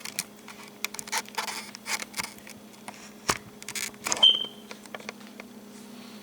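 Kitchenware being handled: a string of light clicks and knocks of dishes and utensils, with one short ringing clink about four seconds in, over a steady low electrical hum.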